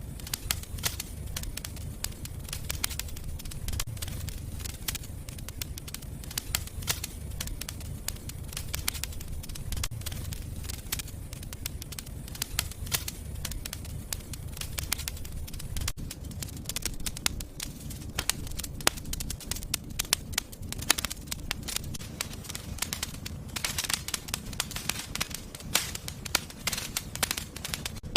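Wood fire burning in a fireplace, with constant irregular crackling and snapping over a low rumble of flame.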